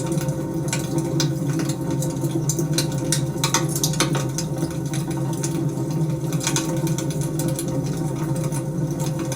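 Wood fire burning: irregular sharp crackles and pops, a cluster of them a few seconds in, over a steady low rumble of the flames.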